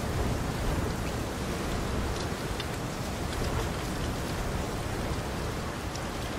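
Steady rain falling on still water, a constant even hiss with a few distinct drops ticking out above it.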